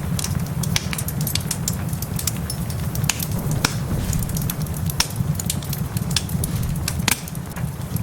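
Wood fire crackling in a fireplace, with irregular sharp pops and snaps over a low, steady rumble, and rain in the mix.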